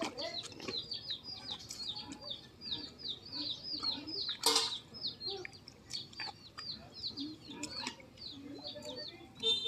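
A bird calling with rapid, high chirps that slide down in pitch, about four a second, going on and on. A single sharp knock sounds about four and a half seconds in.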